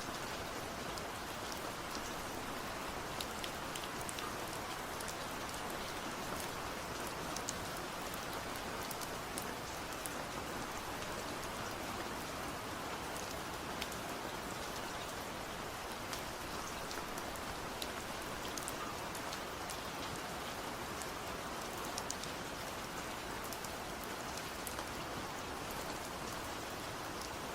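Steady rain falling: a continuous even hiss with scattered sharp ticks of single drops striking a surface.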